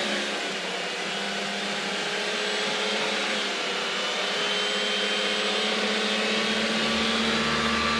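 A steady whirring, motor-like noise with faint tones that drift slowly in pitch, holding at an even level throughout.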